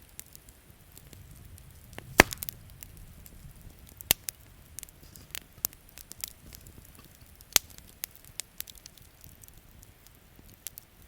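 Wood campfire crackling, with scattered sharp pops, the loudest about two, four and seven and a half seconds in. A faint low rumble sits under it around the second second.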